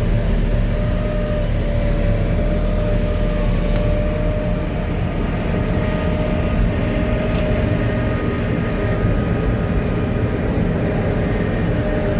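Volvo L70H wheel loader's diesel engine and front-mounted snow blower running steadily under load, heard from inside the cab: a loud, steady low drone with a constant whine above it.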